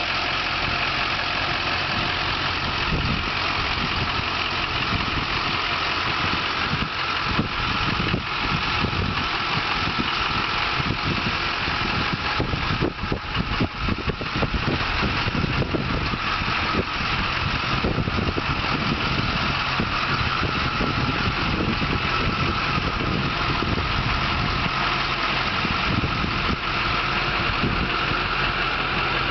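A 2004 GMC C5500's 6.6-litre V8 turbo diesel engine idling steadily, with a spell of irregular low thumps partway through.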